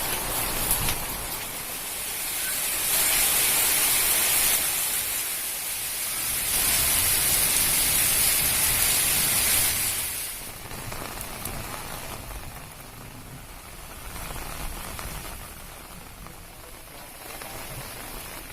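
Heavy rain pouring down in a steady hiss. It swells louder twice, for a second or two and then for about three seconds, before it eases off.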